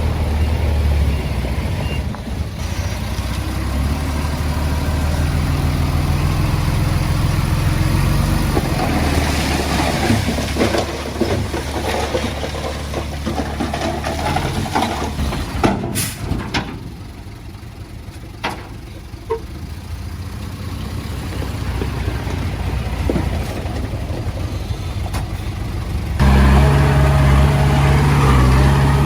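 Heavy diesel earthmoving machinery running, engine steady with shifting load. It drops quieter for a few seconds around the middle, after a single sharp click, then comes back suddenly louder and steadier near the end.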